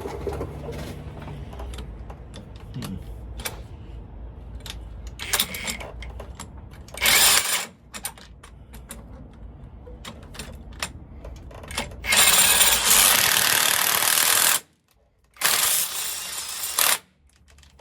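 Impact wrench hammering in three bursts: a short one about seven seconds in and two longer ones near the end. It is driving a bearing puller to force a stuck driveshaft center bearing off, with lighter tool clicks and knocks between the bursts.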